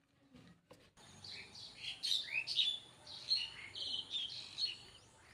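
Birds chirping: a busy run of short, high chirps and quick whistled notes starting about a second in.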